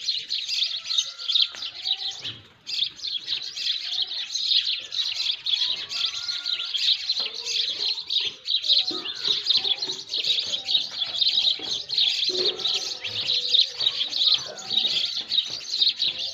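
Dawn chorus of many small birds chirping densely and without pause, with lower calls mixed in.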